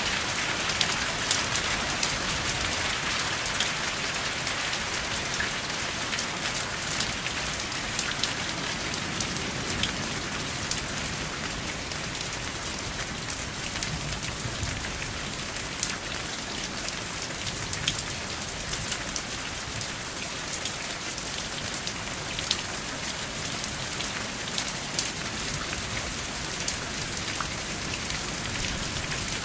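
Steady rain falling, with many individual drops landing as sharp ticks over an even hiss; no thunder.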